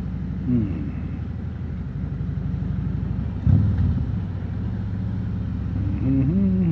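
Harley-Davidson Road King Special's V-twin engine running under the rider, with a sudden louder rise in the engine note about three and a half seconds in as the throttle opens.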